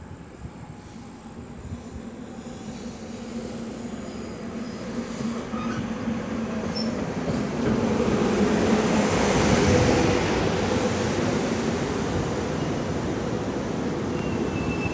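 A two-car SEPTA Silverliner IV electric commuter train pulling into the station, its rumble and steady hum growing louder as it approaches and passes close by. A faint high squeal comes in near the end.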